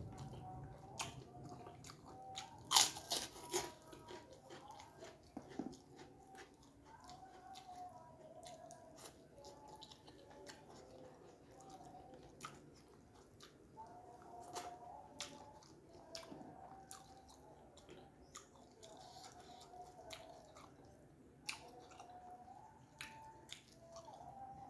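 Close-up chewing and small mouth clicks of a person eating rice and fried tempe by hand, with a loud crunchy bite about three seconds in.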